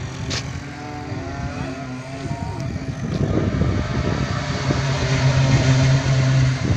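A motor vehicle engine running, with a steady low hum that grows louder over the last few seconds.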